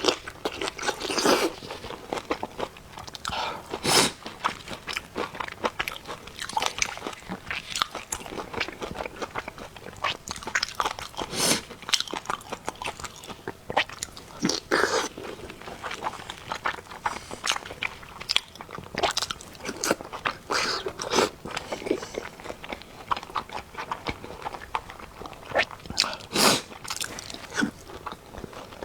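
Close-up sounds of a person eating: chewing and biting into food, with frequent irregular crunches and clicks.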